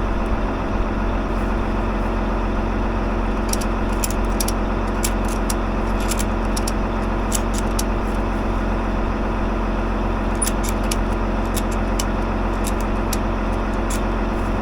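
Tractor engine running steadily, with irregular sharp clicks through the middle as a ratchet strap is tightened to pull a stuck implement wing into its folded position.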